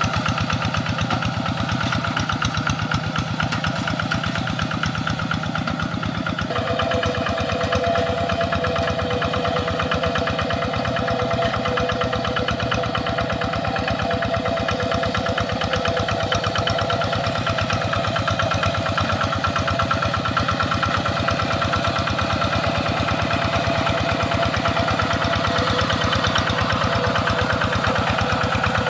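Tractor engine running steadily under work, its tone shifting abruptly about six seconds in and then holding steady.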